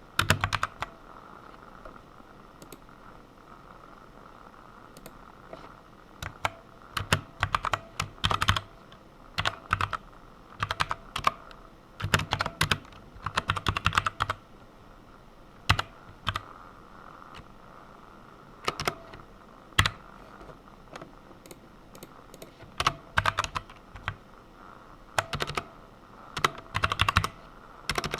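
Typing on a computer keyboard in short bursts of keystrokes, with pauses of a second or more between them. A faint steady hum runs underneath.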